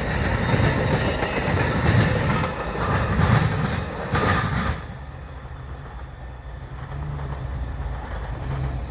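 A train rolling along the rails, its wheels making a clickety-clack over the rail joints. About halfway through, the sound drops suddenly to a quieter, steady low rumble.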